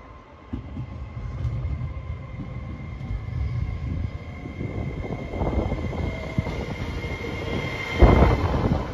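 Trenitalia Pop electric train approaching and running past alongside the platform: the rumble of its wheels on the rails builds steadily under a thin, steady squeal. About eight seconds in, the front passes close and a sudden rush of air hits the microphone, the loudest moment.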